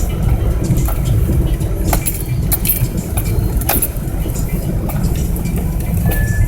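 Car driving at speed, a steady low road and engine rumble with loose items clicking and rattling.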